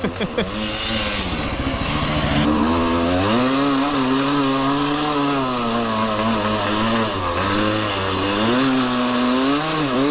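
Dirt bike engine running under load on a trail, its revs rising and falling as the throttle is worked. The note changes about two and a half seconds in and then stays steady.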